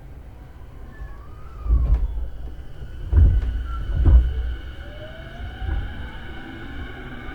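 Interior running sound of an E233-series electric train: low rumble with several heavy thumps, and near the end the motor and inverter whine rising in pitch as the train picks up speed.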